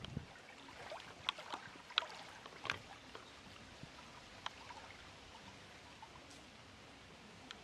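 Lake water lapping gently at the shore: a faint steady wash with scattered small, sharp splashes, a few in the first three seconds and sparser after.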